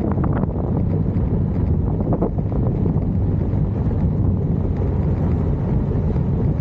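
Steady wind buffeting the microphone: a loud, even low rumble.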